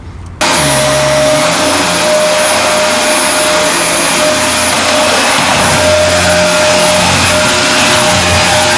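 A Dyson DC24 upright vacuum cleaner switched on about half a second in and running steadily: a rush of air with a steady whine over it.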